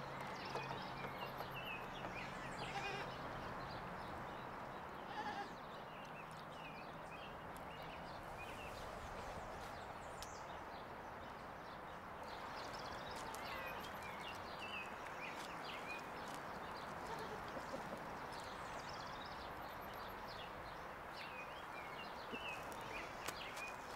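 Farmyard ambience: goats bleating and many short bird chirps over a steady background rush. A low hum stops about five seconds in.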